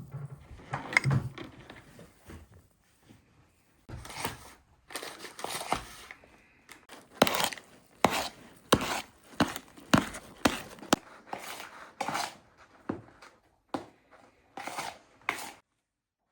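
Knife chopping food on a cutting board: a run of sharp knocks, one or two a second, starting about seven seconds in, with softer rustling and handling noise before it.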